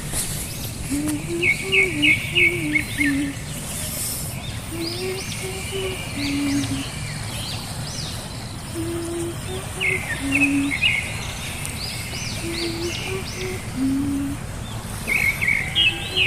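Birds chirping and twittering in short bursts over a low, repeating phrase of stepped notes that comes back about every four seconds.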